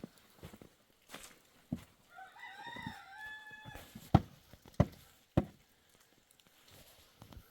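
A rooster crowing once, in a wavering call that ends in a held note. Sharp thuds come before and after it, the loudest three just after the crow.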